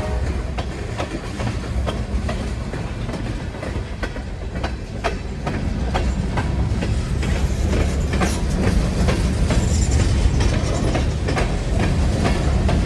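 Slow freight train rolling past close by: a steady low rumble with irregular sharp clicks of wheels over rail joints, growing louder toward the end.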